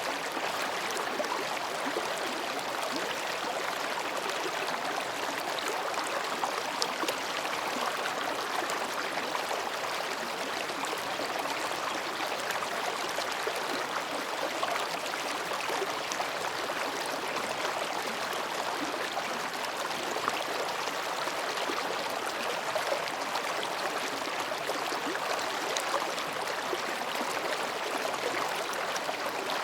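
Shallow mountain stream babbling steadily as it flows between rocks, with small splashes and trickles over a constant rush of water.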